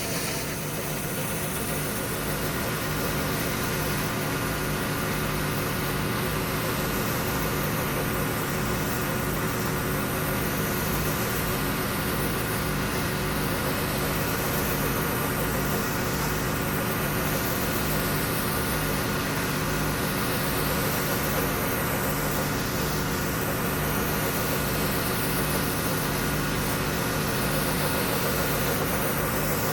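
Pressure washer running steadily, its engine drone under the hiss of the high-pressure spray on concrete; the spray swells and fades every few seconds as it sweeps across the surface.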